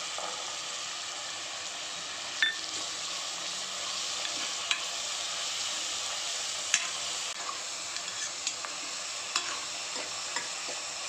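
Onions, tomatoes and garlic sizzling steadily in hot sesame oil in a metal pressure pan, stirred with a metal ladle that clicks sharply against the pan several times.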